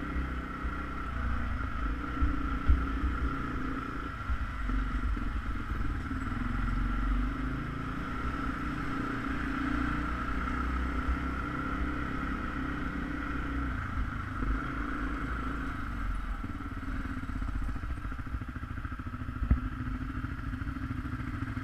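ATV engine running steadily while riding, with a low rumble and a few sharp knocks and rattles.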